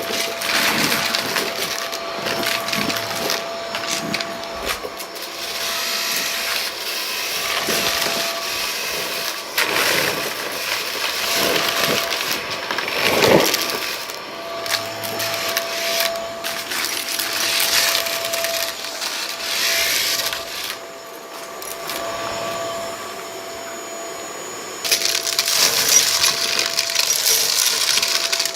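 Vacuum cleaner running with a steady motor hum while it sucks up scattered dry debris from a rug, which crackles and rattles as it goes up. It drops quieter for a few seconds past the middle, then picks up again near the end.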